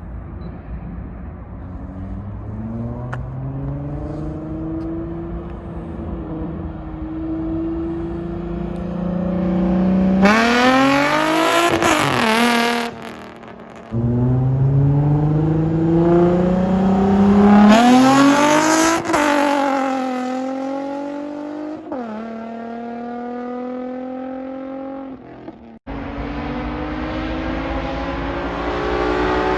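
Nissan 370Z's 3.7-litre V6 with the mufflers deleted, run hard through the gears in several fly-by passes. The engine note climbs, drops back at each upshift and falls in pitch as the car goes past. Twice the sound breaks off abruptly and a new pass starts.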